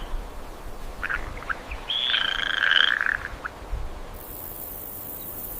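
Animal calls: a few short calls about a second in, then a longer call lasting about a second. A steady high-pitched hiss follows from about four seconds in.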